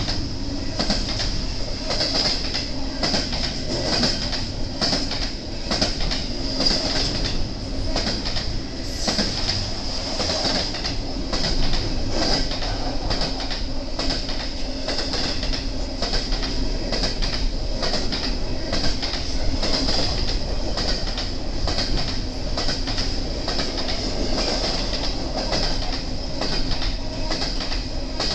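BNSF intermodal freight cars rolling past steadily, their wheels clicking rhythmically over the rail joints. A thin, steady high whine from the wheels runs under the clicking.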